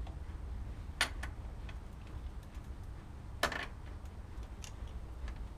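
Sharp clicks and taps of metal parts and tools being handled while fitting an exhaust clamp and bolts: two loud clicks, about a second in and a little past the middle, among fainter ticks, over a steady low rumble.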